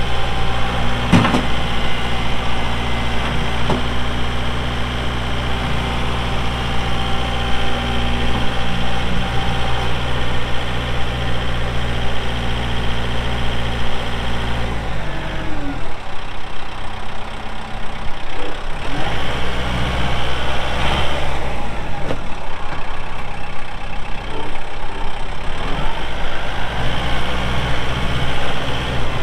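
Kubota M7060 tractor's four-cylinder turbo-diesel engine running steadily, with a knock about a second in. About halfway through the engine note changes and keeps shifting up and down as the tractor is worked.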